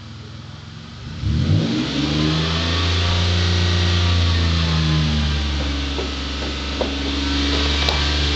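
A car engine revs up about a second in and is held at raised, slightly wavering revs.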